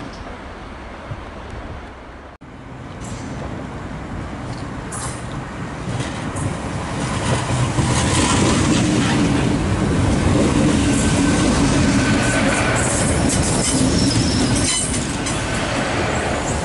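GWR Hitachi Intercity Express Train running along the platform, its rumble and wheel noise building as the train comes alongside and stays loud while the coaches pass. A faint thin high squeal sounds for a couple of seconds in the second half.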